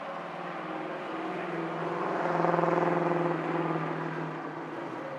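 Vintage straight-eight car engine running as the car drives past, growing louder to a peak about halfway through and then fading away.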